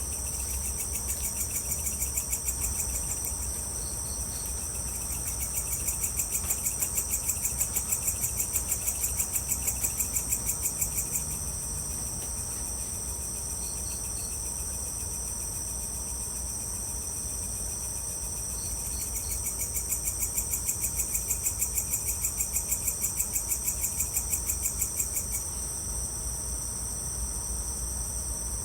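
Crickets and other night insects chirping in a continuous high trill. A louder pulsing chirp of about three to four pulses a second swells in twice, and short bursts of higher chirps come every few seconds. A faint low rumble runs underneath.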